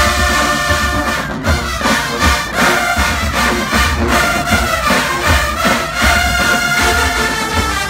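Marching band brass section playing held chords over steady bass drum beats.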